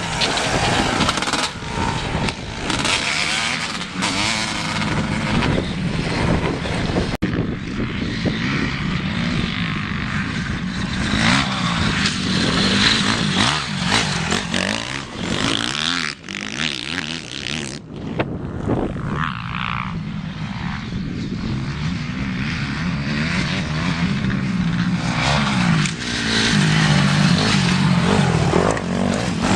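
Motocross bikes racing, their engines revving up and down repeatedly as they accelerate and back off.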